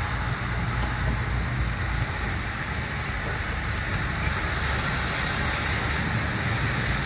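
Steady rushing noise of a heavy storm: dense rain or hail and water, with a low rumble underneath.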